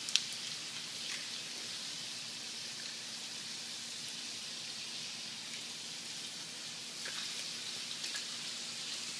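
Chicken and vegetables frying in oil in pans on the stove, a steady sizzle, with a sharp click just at the start and a few fainter clicks later.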